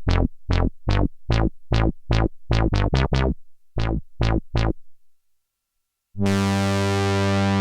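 Behringer JT-4000M synthesizer playing a factory preset: a run of short plucked notes in an uneven rhythm, each one's bright tone quickly dying away. After about a second of silence, a sustained, bright chord starts near the end.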